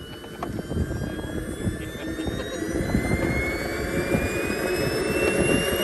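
Large RC model airplane's engine running with a high whine that rises slowly and steadily in pitch and grows louder.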